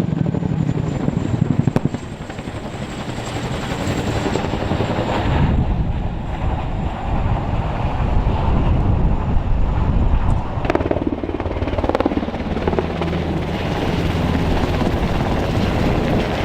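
Helicopter running, with a fast low beating of rotor blades and a thin steady high whine that stops about ten seconds in.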